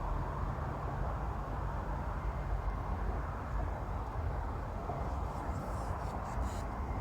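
Steady low outdoor background rumble with no clear single source, with a few faint light clicks about five to six seconds in.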